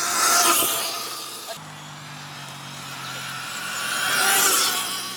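Sur-Ron electric dirt bike passing close by twice, its motor whine and tyre rush swelling and fading each time, about half a second in and again about four seconds in.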